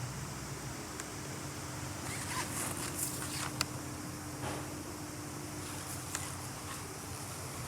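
Honda GB250 Clubman's single-cylinder four-stroke engine idling steadily, with a few faint clicks over it.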